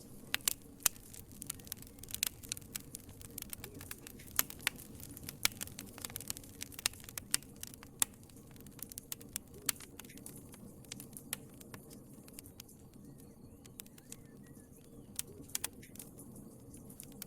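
Wood fire in a fireplace crackling, with many sharp pops and snaps over a soft steady hiss of the flames. The pops come thick and fast for the first ten seconds or so, then thin out, with a few more bunched together near the end.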